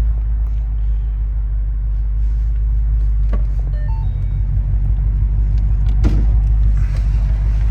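2013 Mustang GT's 5.0 L Coyote V8 idling warm through an aftermarket Borla cat-back exhaust, a steady low rumble; a single knock about six seconds in.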